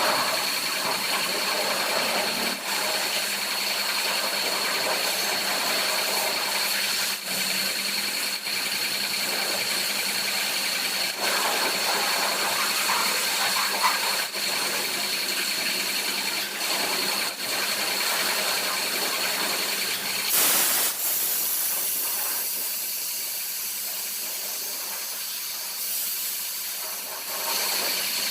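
High-pressure washer spraying water: a steady hiss with a thin high whine running under it, and a short louder blast about twenty seconds in.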